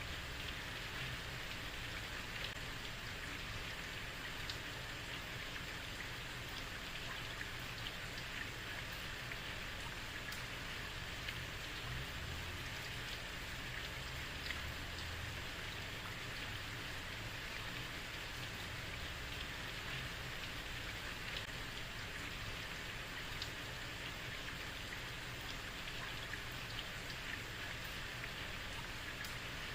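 Heavy rain falling steadily on a street, a constant hiss with faint scattered drop ticks.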